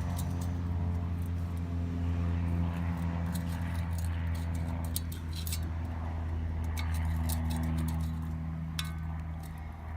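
Scattered light metallic clinks and rattles of metal parts and tools being handled, over a steady low hum.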